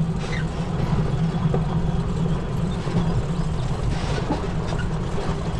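Utility vehicle (UTV) riding along a track: a steady, loud low rumble of vehicle and ride noise.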